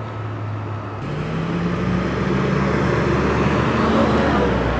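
A truck driving past. Its engine and tyre noise swell from about a second in, are loudest near the end, then begin to fade.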